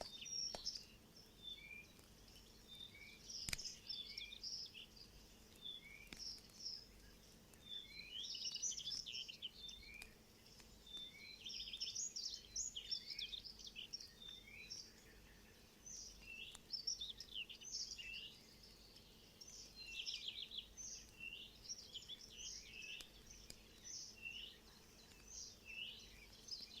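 Small songbirds chirping and trilling, many short calls, some in quick runs, with a sharp click about three and a half seconds in.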